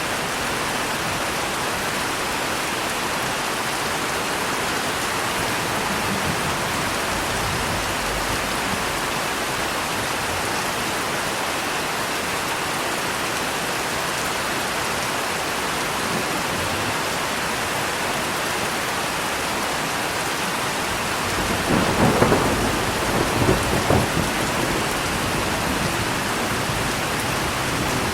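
Steady heavy rain falling, with a rolling thunderclap about three quarters of the way through that crackles and rumbles for a few seconds before fading back under the rain.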